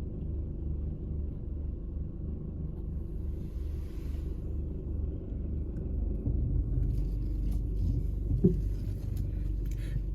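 Strong storm wind buffeting the microphone: a low, unsteady rumble, with a few sharp clicks in the second half and a single thump about eight seconds in.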